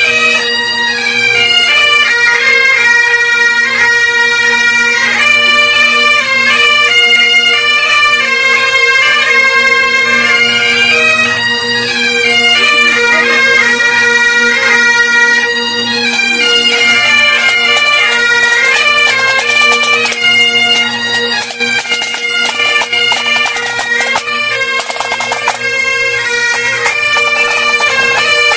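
Highland bagpipes played by several pipers: steady drones under a stepping chanter melody. Past the middle a crackly rattle sounds along with them for several seconds.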